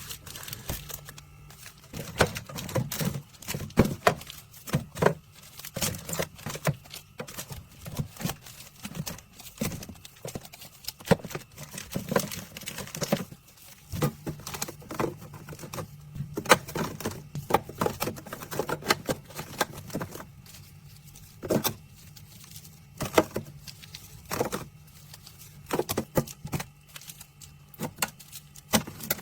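Irregular clicking and knocking, many small sharp impacts at uneven intervals, over a low steady hum.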